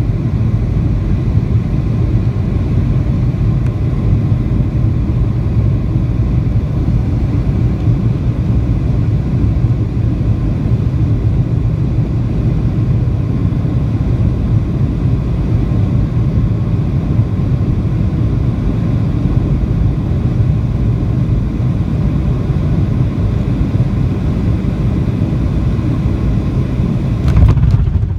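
Boeing 737 airliner on its landing approach, heard from inside the cabin: a loud, steady, low rumble of engines and rushing air. A brief louder burst comes near the end.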